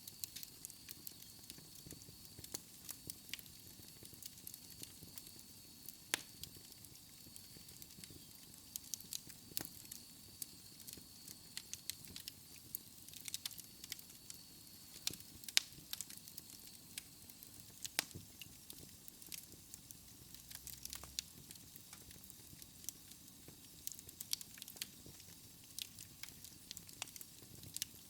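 Wood fire crackling in a fireplace: a faint steady hiss with frequent sharp, irregular pops and snaps.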